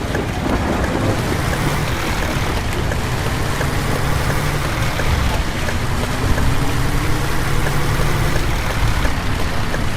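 School bus engine running under heavy rain and wet-road noise, a steady low hum with a pitch that climbs slowly through the second half.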